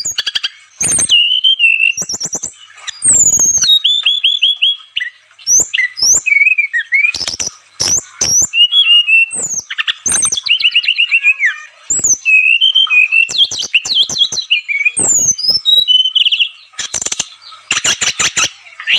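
Brown-chested jungle flycatcher (sikatan rimba dada coklat) singing a fast, varied song of chirps, rising and falling whistled sweeps and short trills, with sharp clicks scattered through it.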